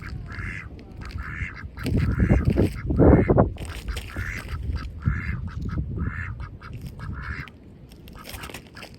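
Domestic ducks quacking in a quick series of short calls, with a louder low rumbling noise about two to three and a half seconds in.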